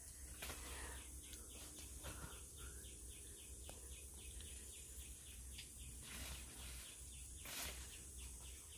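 Faint outdoor ambience with birds chirping repeatedly over a steady high hiss, and a couple of brief rustles about half a second in and again near the end.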